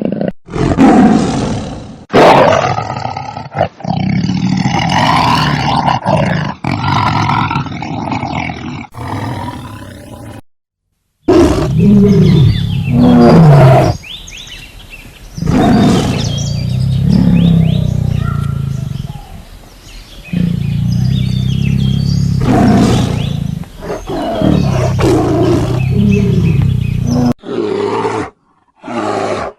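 Big cats roaring and growling in a string of short, abruptly cut clips, with a brief silent break about ten seconds in.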